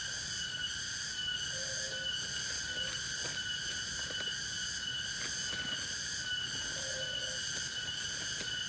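A steady chorus of insects in forest, a shrill high drone that pulses slightly. Brief faint low calls come twice, about two seconds in and near seven seconds.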